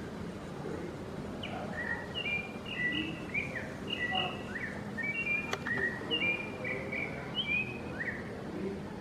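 A bird called the chonte singing a long run of short, slurred whistled notes, starting about a second and a half in, over steady background noise. A single sharp click comes about halfway through.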